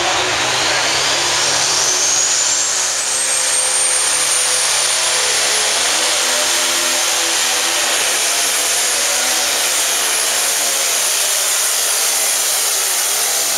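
Turbocharged diesel engine of a Pro Stock pulling tractor running flat out on a pull. A high turbo whine rises steadily over the first several seconds and then holds high.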